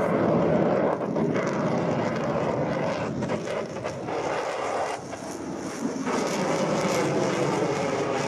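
Aircraft engine noise, a steady drone that dips briefly and comes back.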